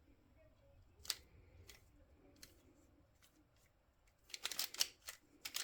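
Plastic puzzle cube being turned by hand: a single click about a second in, then a quick run of turning clicks near the end.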